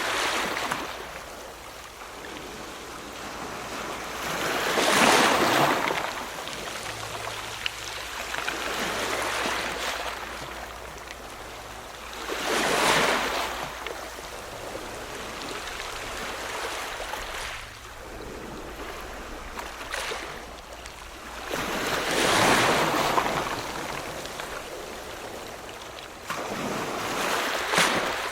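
Ocean surf: waves break and wash in about five times, each surge of hiss swelling and fading over a couple of seconds, several seconds apart, with a steady rush of water between them.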